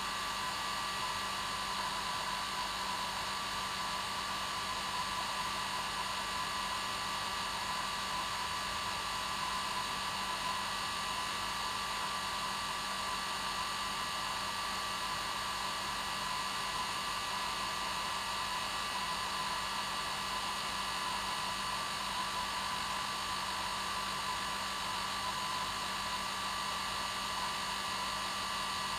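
Hair dryer running steadily: a constant motor whine with rushing air, unchanging throughout.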